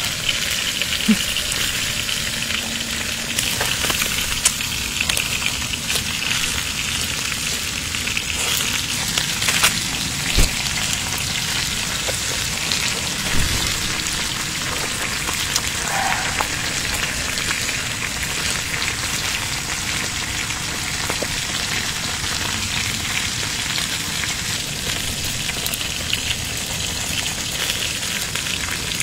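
Close-miked crunching and chewing of crisp lettuce leaves, a steady crackle with scattered sharper snaps.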